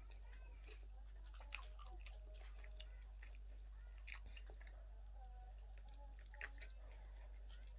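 A person chewing and biting into sauced chicken wings close to the microphone: irregular mouth clicks and smacks over a steady low hum.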